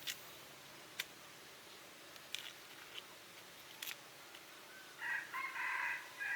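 A rooster crows once near the end, a broken call about a second long. A few sharp clicks or knocks come earlier.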